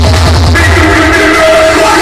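Loud electronic dance music played through big sound-system speaker rigs during a sound check. A heavy pulsing bass beat drops out about a quarter of the way in, leaving held synth notes.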